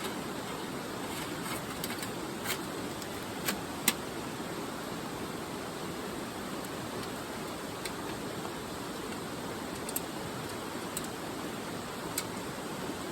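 Wood fire burning in a fire pit: a steady rush with sharp crackles and pops now and then, the loudest about four seconds in.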